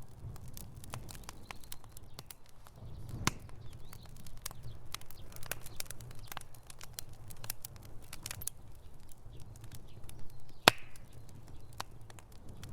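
Wood fire in a fireplace crackling: irregular sharp pops and snaps over a low steady rumble, with two louder pops, about three seconds in and about ten seconds in.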